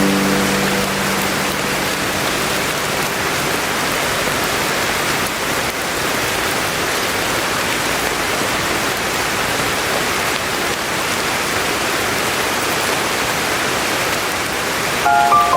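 Steady rain falling, an even hiss with no pauses. The last held note of a melody fades out in the first few seconds, and the next tune begins near the end.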